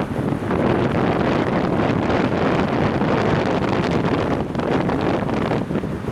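Wind buffeting the microphone of a head-mounted action camera on a moving bicycle: a loud, continuous rumbling rush of noise.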